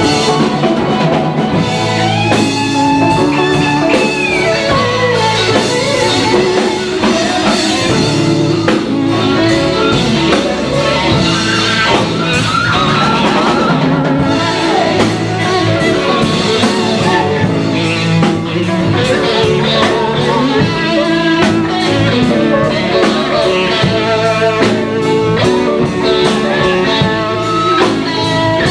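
Live blues-rock band playing: electric guitar over bass and drum kit with a steady beat, with bending guitar lines.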